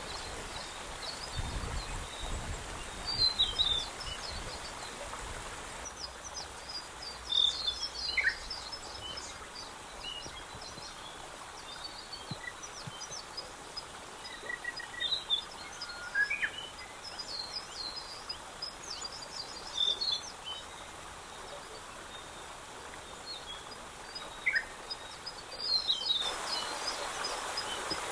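Small birds chirping and singing in short, scattered high calls over a steady hiss of outdoor ambience.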